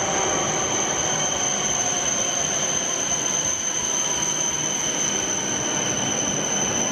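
E7/W7-series Shinkansen high-speed train running in along an underground station platform: a steady rush of train noise with a steady high-pitched whine.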